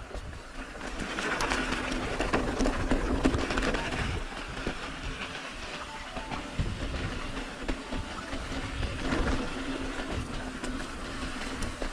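Continuous rattling and clicking of a bike jolting over a rough dirt trail, with tyre noise and a low rumble of wind on the microphone.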